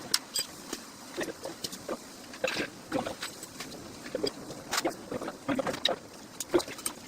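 Irregular knocks and clicks from hands-on work pulling a car's engine and gearbox, a short sharp sound every half second or so with no steady running sound under them.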